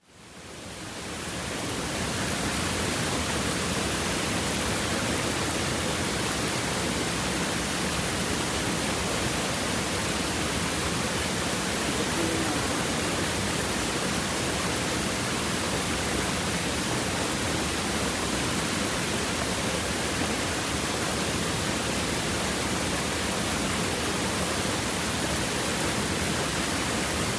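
Stream water babbling over river stones, a steady rushing that fades in over the first second or two and then holds even.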